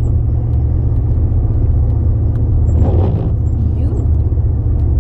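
Car cabin rumble while driving: a loud, steady low drone of engine and road noise. A faint voice briefly joins it about three seconds in.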